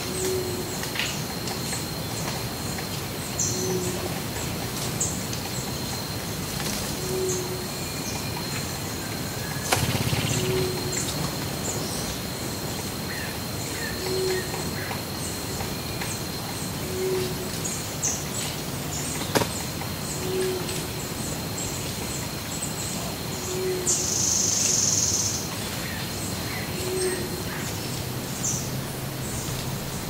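Wild birds calling in tree canopy: a low, short hoot repeats about every three seconds under scattered high chirps. A steady thin high whine runs beneath them, with a thump about ten seconds in and a brief high buzz late on.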